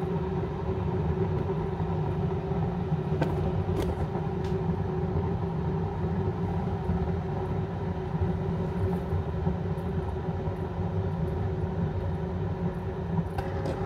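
Keurig K-Mini single-serve coffee maker rumbling steadily as it heats and pumps water through its cleansing brew cycle, run with plain water and no pod. A faint steady hum rides over the rumble, with a couple of faint clicks about three and four and a half seconds in.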